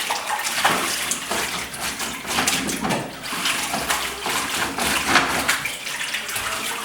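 Wet laundry being scrubbed up and down a washboard in a tub of soapy water: repeated rubbing strokes with water sloshing.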